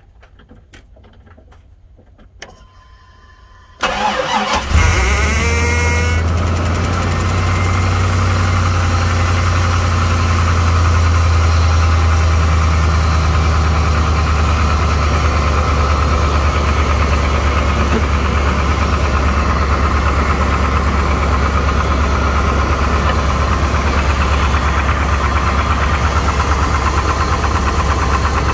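1998 K1500 pickup's engine cold-started at 9 degrees: a few light clicks and a brief steady tone, then the starter cranks and the engine catches about four seconds in. A rising whine follows as it comes up, and it settles into a steady cold idle with a rapping that the owner takes for valves needing adjustment.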